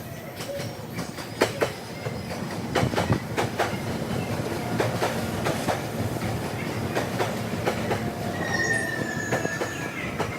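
Train wheels running over the rails, a rapid series of clicks from the rail joints over a steady rumble, played back at double speed. Near the end a high wheel squeal comes in, sliding slightly down in pitch.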